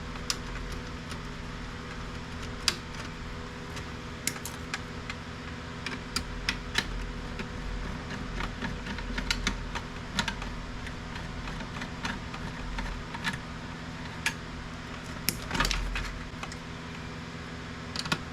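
Irregular light clicks and taps of plastic printer parts and hand tools being handled during disassembly, a few louder knocks among them, over a steady low hum.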